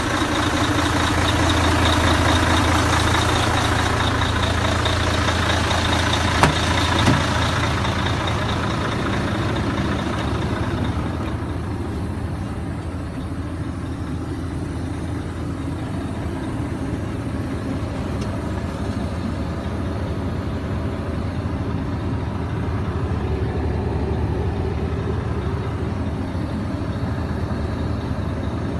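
Mercedes-Benz 1846 truck's diesel engine running steadily, louder with more hiss for the first ten seconds or so and then settling quieter. Two sharp clicks about half a second apart come around six to seven seconds in.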